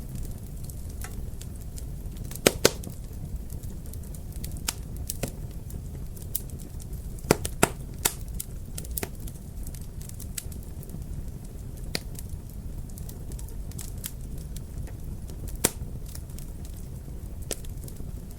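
Fireplace fire crackling: scattered sharp pops and snaps over a low steady rumble. The loudest pops come as a pair about two and a half seconds in and a cluster around seven to eight seconds in.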